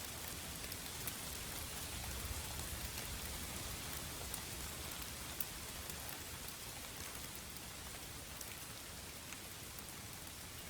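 Steady rain falling, an even hiss with many fine individual drop ticks.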